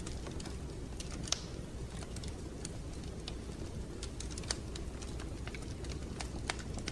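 Wood fire in a fireplace burning with a steady low rumble and irregular sharp crackles, with a few louder pops: about a second in, past the middle and near the end.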